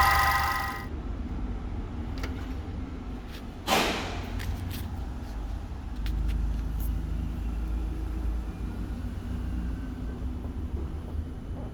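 A Volkswagen Jetta Mk5 engine running with a steady low rumble. A loud, steady multi-tone sound cuts off just under a second in. About four seconds in there is a short, loud, noisy burst, and a few faint clicks come after it.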